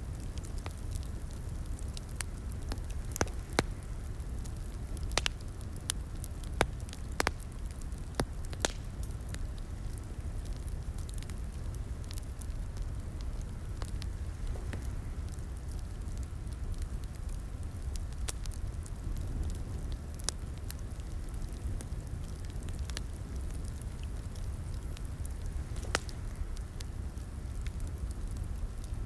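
Crackling fireplace: a steady low rumble of burning wood with sharp, irregular pops and snaps.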